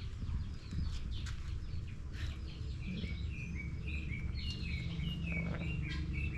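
Birds chirping, with a run of short, repeated high calls in the second half, over a low steady rumble.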